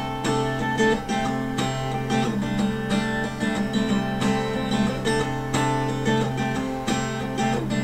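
Acoustic guitar playing an instrumental passage, a run of evenly spaced plucked notes over sustained ringing strings, with no voice.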